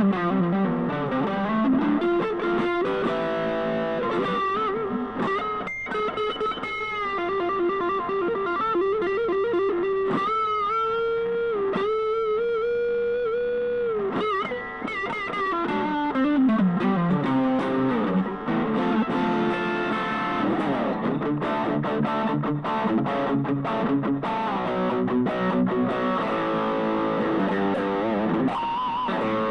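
Fusion Stratocaster-style electric guitar playing single-note lead lines with overdrive, using string bends and vibrato. About halfway through there is a long held, wavering note, followed by a bend sliding down.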